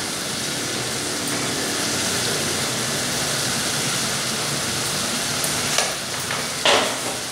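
Tomato and onion masala frying in a metal pot on a gas stove, with a steady sizzle. Two short knocks come near the end.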